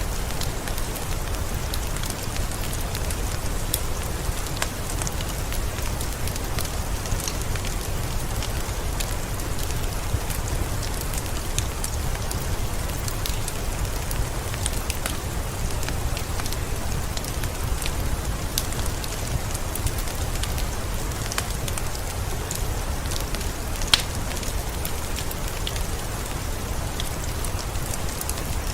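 Steady rain mixed with a crackling wood fire: an even hiss of rainfall under scattered sharp pops and crackles from the fire, one louder pop near the end.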